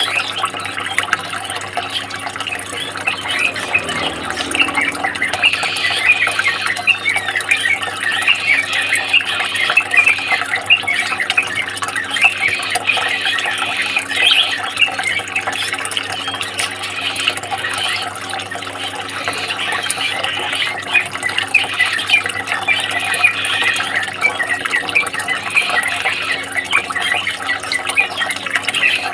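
Many caged songbirds chirping and twittering densely all together, over a steady low hum.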